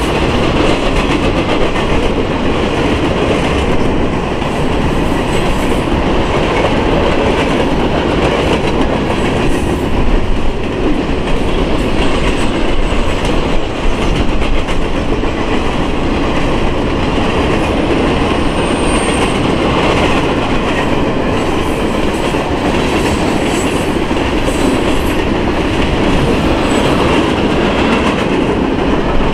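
Cars of a manifest freight train rolling past a grade crossing: a loud, steady noise of steel wheels on rail that runs without letup.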